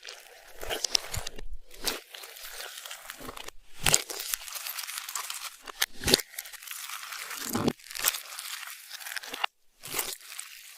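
Slime being squished and stretched by hand: a dense run of sticky crackles and sharp pops, with a few short breaks.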